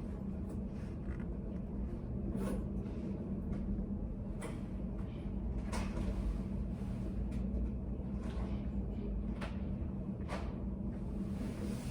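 Study-cafe room ambience: a steady low hum with scattered light clicks and knocks, one every second or two, at irregular intervals.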